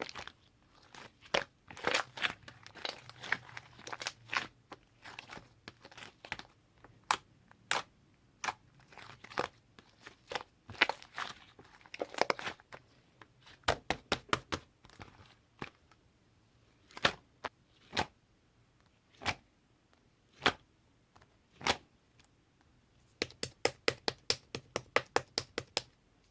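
Slime being squished, stretched and pressed by hand, giving sharp wet pops and clicks with short crackly stretches. Near the end comes a quick run of pops, about five a second.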